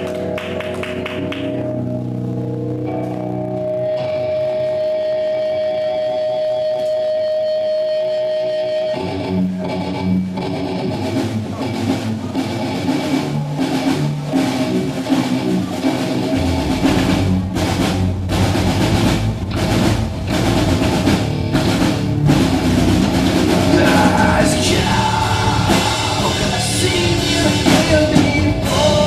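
A live rock band playing. It opens sparse, with electric guitar and a long held note. Drums come in about nine seconds in, and the full band with bass fills out around halfway.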